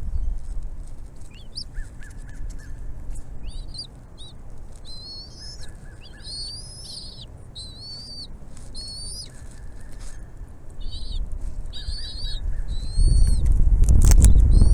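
Bald eagle giving a long series of high, thin chirping whistles that rise and fall, over a low rumble. Near the end a louder low rushing swells up, with a sharp knock.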